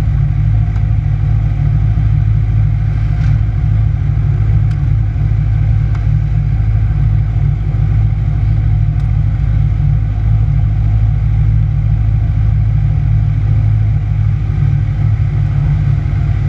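2009 Kawasaki ZX-6R's inline-four engine idling steadily, a constant low rumble.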